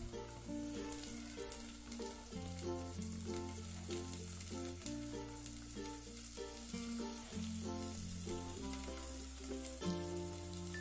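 Sprouted moth beans sizzling in hot oil in an aluminium pot as more are tipped in, a steady crackling fry. Instrumental background music with a slow bass line plays throughout.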